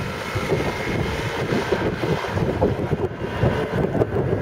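Yamaha 25 hp outboard motor running steadily with the inflatable boat at planing speed, with heavy wind buffeting the microphone.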